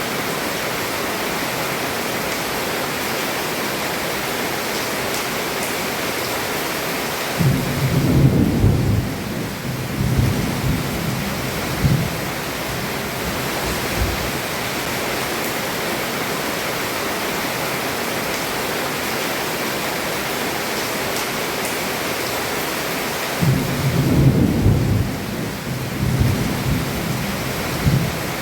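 Heavy rain falling steadily on a roof, with two rolls of thunder rumbling low, one about eight seconds in and another about twenty-four seconds in, each lasting around four seconds.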